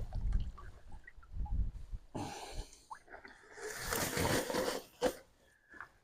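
Wet handling of plucked Cornish cross chicken carcasses: irregular squishing and dripping water, with a longer wet rustle a little past halfway.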